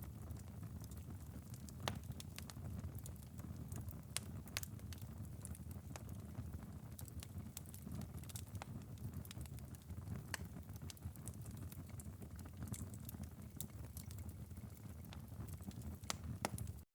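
Wood-burning fireplace's glowing ember bed, late in a five-hour burn: a steady low rumble with frequent sharp crackles and pops scattered throughout. The sound cuts out suddenly at the very end.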